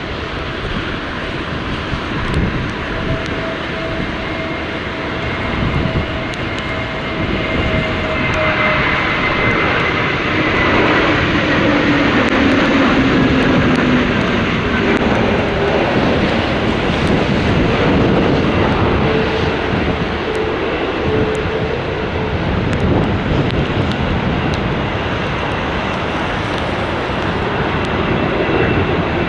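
Jet airliner's engines passing close by as it comes in to land: a broad roar that swells to its loudest about halfway through, with engine whine tones sliding down in pitch as it goes past.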